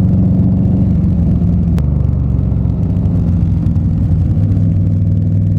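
Indian Scout Bobber's V-twin engine running at low revs, its pitch easing down slightly about two seconds in, with a single sharp click at that moment.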